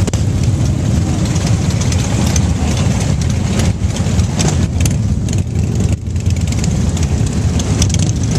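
Motorcycle engines running steadily, a low rumble at idle.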